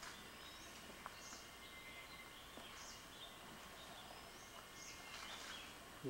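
Faint outdoor background hiss with brief, high-pitched bird chirps and calls repeating about once a second.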